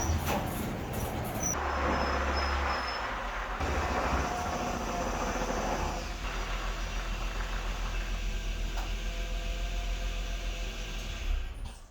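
Steady low rumble and road noise of a moving vehicle, cutting off suddenly near the end.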